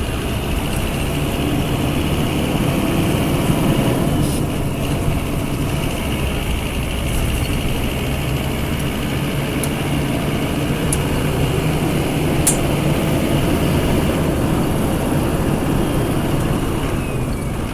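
Scania F250HB city bus's DC09 five-cylinder diesel engine running at a steady speed, with a few faint sharp clicks.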